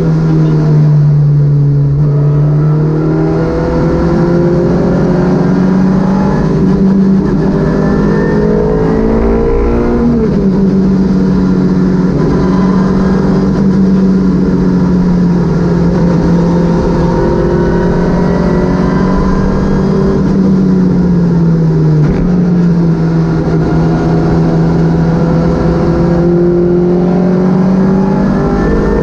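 Citroën Saxo VTS rally car's 1.6-litre four-cylinder engine driven hard on a stage, its pitch climbing and falling with throttle and gear changes, with a sharp drop in revs about ten seconds in and another about twenty-two seconds in.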